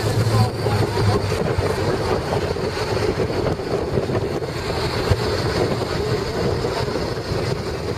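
Wind rushing over the microphone with the steady noise of a moving vehicle.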